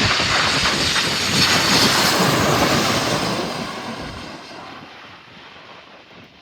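Jet airliner passing close on arrival, its engine noise loud for the first three seconds and then fading away from about four seconds in.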